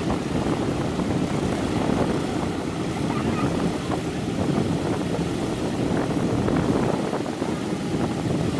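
Piston radial engines of a World War II four-engine bomber running steadily, a dense low rumble.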